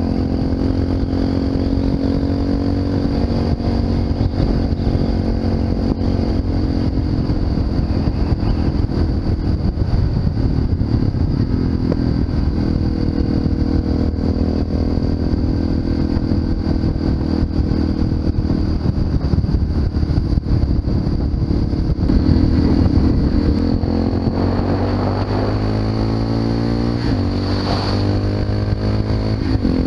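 Honda FMX 650's single-cylinder engine running through an Arrow aftermarket exhaust, held at a steady pace while riding. Near the end the revs climb, drop sharply, and climb again.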